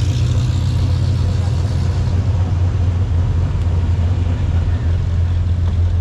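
Car engine running at low speed with a steady low rumble.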